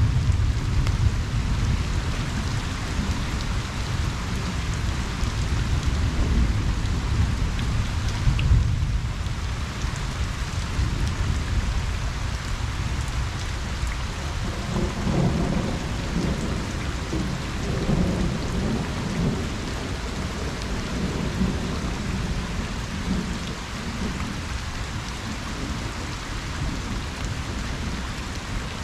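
Steady rain pattering on a pond's surface during a thunderstorm, with low thunder rumbling underneath. The rumble is strongest in the first third and swells again about halfway through.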